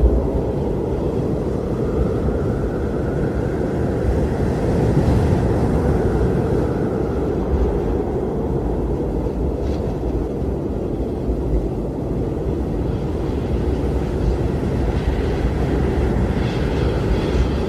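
Strong blizzard wind blowing steadily with a deep rumble. A faint howling whistle rises and falls in the first few seconds, and a higher whistle comes near the end.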